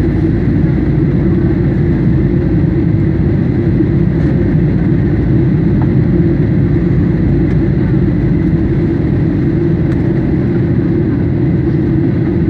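Steady low roar of a Boeing 737 in flight, engine and airflow noise heard from inside the passenger cabin during the approach, unchanging throughout.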